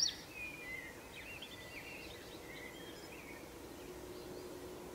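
Faint outdoor ambience with scattered short small-bird chirps, the loudest right at the start. A faint steady hum comes in during the second half.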